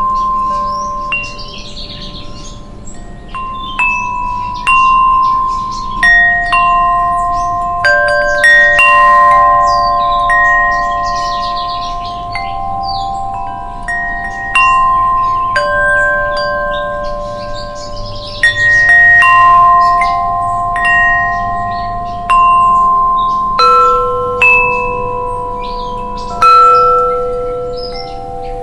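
Wind chimes rung by the wind. They strike at irregular intervals, and several notes of different pitch ring on and slowly fade while new strikes overlap them.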